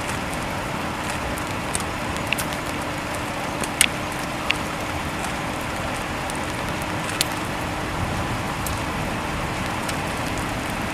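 Steady rushing roar of wind from a nearby multi-vortex tornado, under a faint steady hum, with a few scattered sharp ticks; the loudest tick comes about four seconds in.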